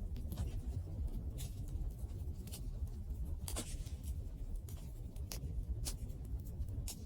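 Wood fire burning: a steady low rumble with irregular sharp crackles and pops of the burning wood.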